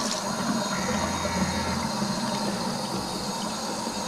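Water tap running steadily into a sink while hands are rinsed under it, with a low hum for about a second near the start.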